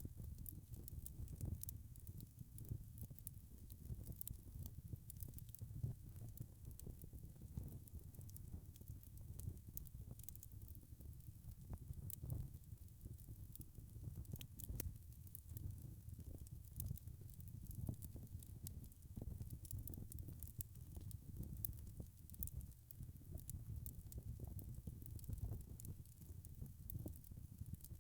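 Wood fire burning in a fireplace: a steady low rumble of flame with frequent small crackles and occasional sharper pops from the logs.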